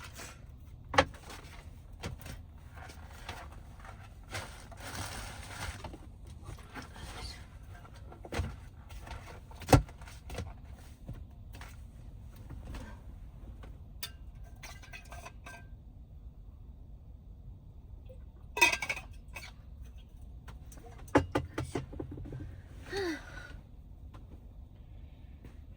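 Dishes and cookware being handled in a small space: scattered sharp knocks and clinks, with a stretch of rustling about five seconds in.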